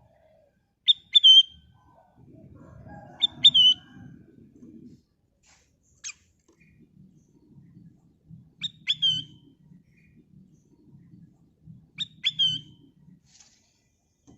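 Kutilang emas bulbul giving a short, sharp chirping call phrase four times at uneven intervals, over a faint low rumble.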